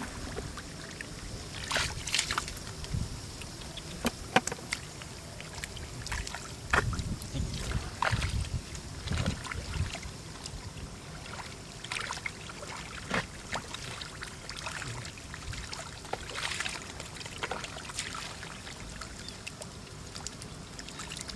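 Irregular sloshing and splashing of shallow muddy water, with scattered clicks and low thuds, as hands work through mud and water to catch fish.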